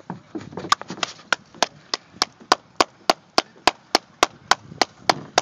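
A steady run of sharp strikes, about three and a half a second, evenly spaced. Softer, uneven knocks come first, in the first second.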